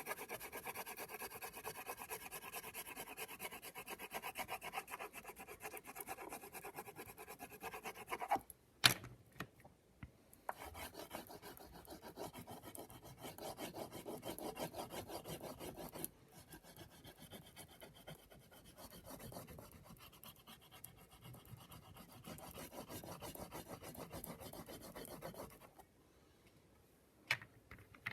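Crayon scribbling back and forth on construction paper in fast, scratchy strokes, coming in runs. A sharp click comes about nine seconds in, and another comes near the end after a short pause.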